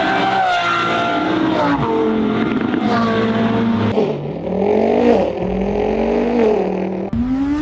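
Engine revving sound, climbing in pitch in steps like gear changes. At about seven seconds it cuts to a different rev that rises and then falls.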